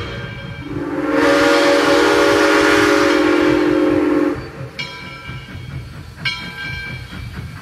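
Train whistle blowing one long steady note for about three seconds over the low rumble of a moving train. After that, a ringing strike repeats about every second and a half.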